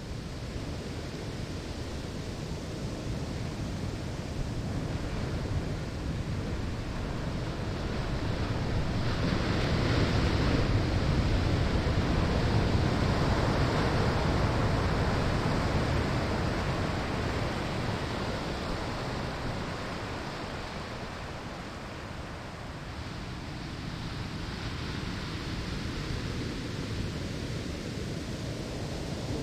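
Ocean waves breaking and washing on a sandy shore: a steady surf rush that swells to a peak about a third of the way in, then slowly ebbs and begins to build again near the end.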